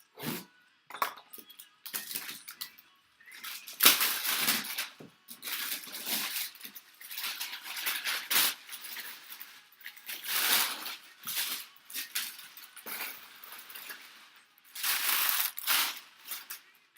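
Packaging being handled and opened by hand: irregular bursts of rustling and scraping, each a second or so long.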